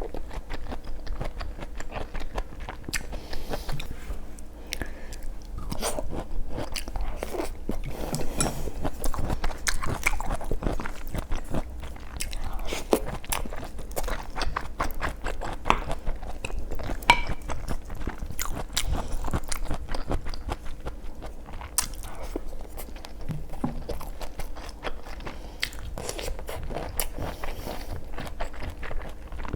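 Close-miked eating: a steady run of crunchy bites and chewing.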